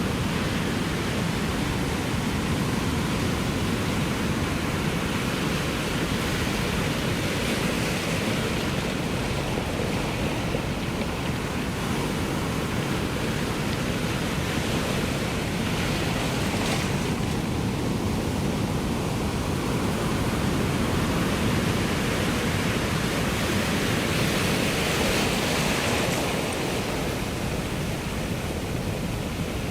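Ocean surf rolling onto the shore, a continuous wash of waves that swells a little louder every several seconds.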